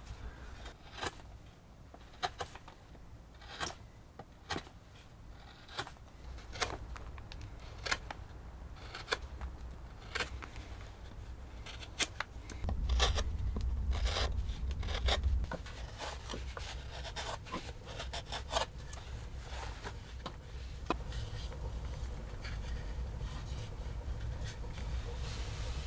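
Irregular sharp clicks and light scraping, with a low wind rumble underneath that swells for a couple of seconds about 13 seconds in.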